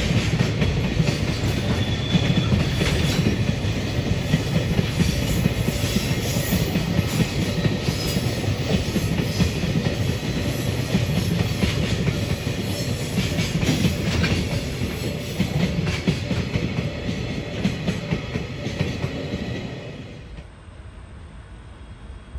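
JR Freight container train of Koki flatcars rolling past close by: a steady rumble of steel wheels with repeated clicking over rail joints. The sound drops away suddenly about two seconds before the end as the last wagon passes.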